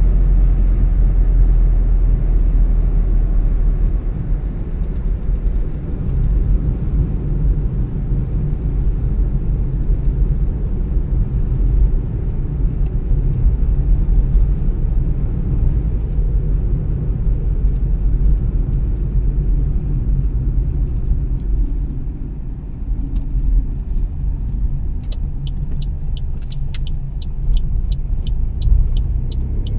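Car driving on the road: a steady low rumble of engine and tyre noise. Near the end, a regular ticking comes in at about two ticks a second.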